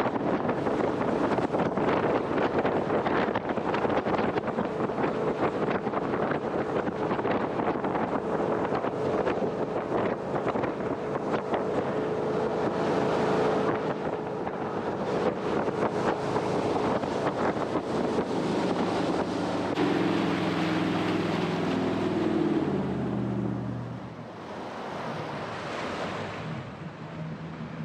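Jet boat running at speed, its engine and jet drowned in a steady rush of water and wind. About twenty seconds in, the engine note falls as the boat slows down, and the sound settles much quieter near the end.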